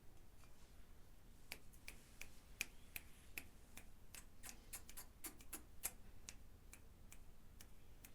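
A run of faint, sharp clicks at an uneven pace, roughly three a second, starting about a second and a half in.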